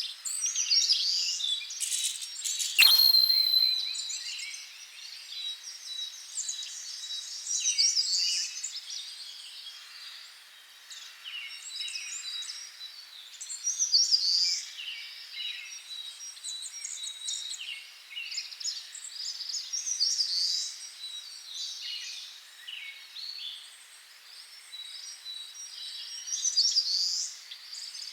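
Many wild birds chirping and singing, short high calls overlapping throughout. About three seconds in, one sharp click is followed by a thin, high ringing tone that fades out over a few seconds.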